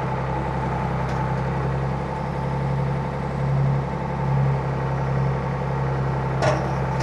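Ford 555 backhoe's diesel engine running steadily, with a brief sharp click near the end.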